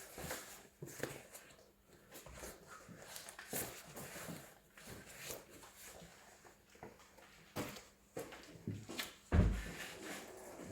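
Scattered metal clinks and knocks of hand tools working on a tractor's rear wheel as it is being removed, with one heavy thump about nine seconds in.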